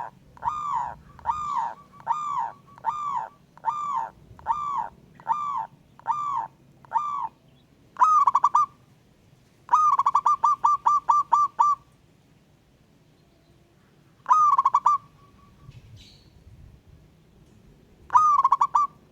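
Zebra doves (perkutut) cooing: a steady run of about eleven arched notes, roughly one and a half per second, then short bursts of rapid, stuttering coos.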